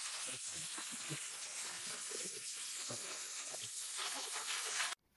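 A steady hiss with faint, scattered low knocks beneath it, cutting off abruptly near the end.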